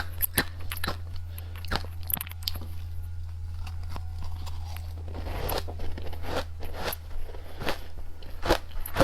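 Candy being bitten and chewed close to the microphone, in a run of sharp, irregular crunches. A steady low hum runs underneath.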